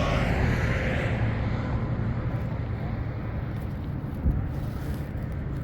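A low engine rumble, with a broader rushing noise that fades away over the first two seconds, and a single knock about four seconds in.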